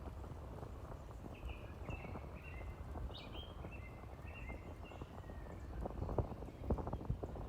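Horse hooves clip-clopping on the road, loudest near the end, and a bird chirping a run of short high notes in the middle, over a steady low rumble of wind and rolling bicycle.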